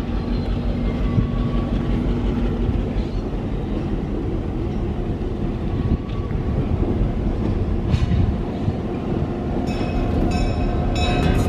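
Big Trees & Pacific Railroad beach train, a standard-gauge diesel-hauled passenger train, rumbling steadily past, with a few sharp clicks near the end.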